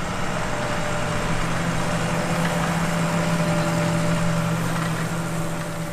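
Engine running steadily at constant speed: a low, even hum with a fainter higher tone over a broad mechanical noise, with no revving.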